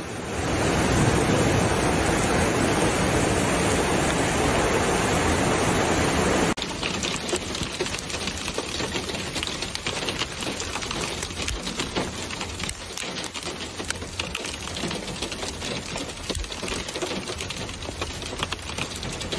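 Heavy rain, a dense steady roar of falling water that cuts off abruptly about six and a half seconds in, giving way to a quieter, crackling patter of many drops striking a hard surface.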